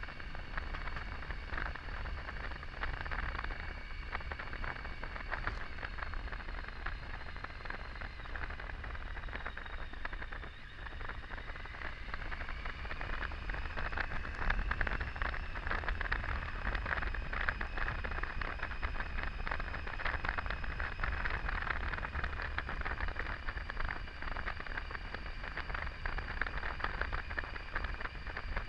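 Triumph Tiger 800's three-cylinder engine running at road speed under steady wind noise. The engine's whine drops in pitch about ten seconds in, then rises again from about twelve seconds and holds.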